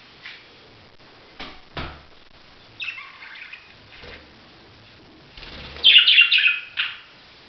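Budgerigars chirping: a short burst of chatter about three seconds in and a louder run of chirps near the end, with two soft thumps early on.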